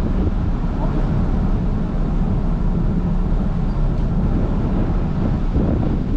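Steady low rumble of a car ferry underway, with wind on the microphone.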